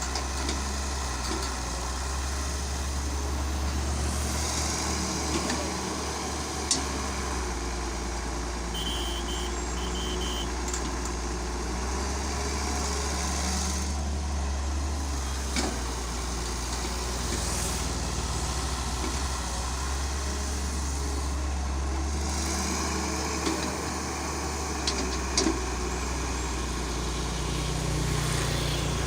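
A heavy construction machine's engine running steadily with a low hum, with a few short knocks and a brief high beeping about nine seconds in.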